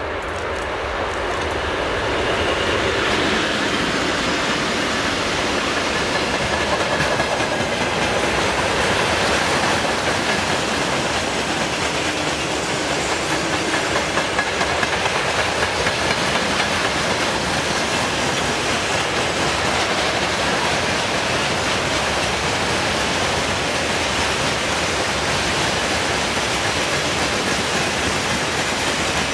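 Freight train passing close by: the sound builds over the first few seconds as the twin-section 2TE25KM diesel locomotive goes past, then hopper wagons roll by with steady wheel-on-rail noise and wheels clacking over rail joints.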